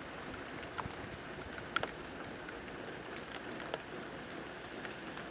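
Steady thunderstorm rain hissing, with a handful of individual drops tapping close by, the loudest about two seconds in.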